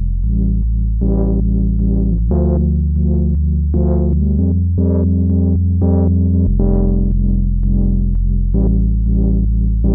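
Moog Subharmonicon analog synthesizer playing a bassy sequenced patch: a sustained low bass that steps to a new pitch about every two seconds, under a quick repeating run of short pitched notes.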